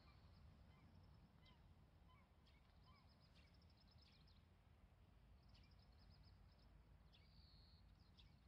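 Near silence: quiet open-air ambience with a faint low rumble and scattered small bird calls, short high chirps and a couple of rapid trills.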